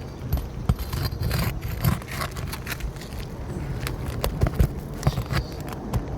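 Irregular scraping, clicking and crinkling of hand tools working under a 3-tab asphalt shingle to pull roofing nails, over a steady low rumble.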